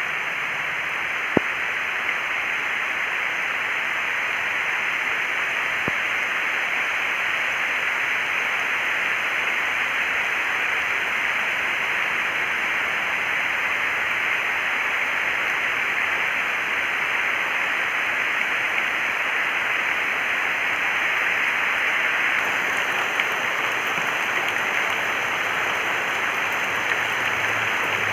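Steady rushing noise, even and unbroken, with a few faint clicks.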